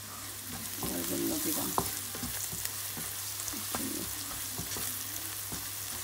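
Sliced onions and spice powder sizzling in hot oil in a frying pan while a spatula stirs them, scraping and knocking against the pan; one sharp knock a couple of seconds in is the loudest moment.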